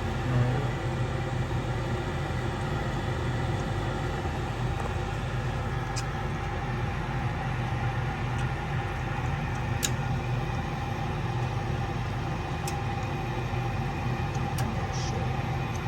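Steady low mechanical hum of a running motor, with a few light clicks.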